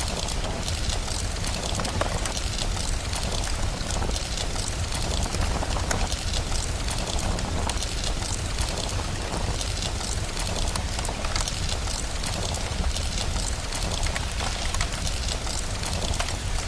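Steady rain hiss over a constant low rumble, with frequent small pops and crackles of a wood fire scattered through it.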